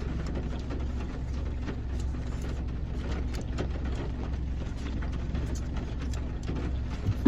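Steady low hum inside a car cabin, with faint scattered ticks and one short click just before the end.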